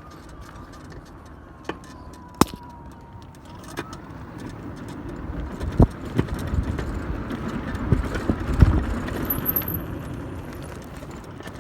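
Electric hub-motor pit bike being ridden: a faint motor whine sinking slightly in pitch, then a swelling rush of riding noise with repeated knocks and rattles as the bike goes over rough ground.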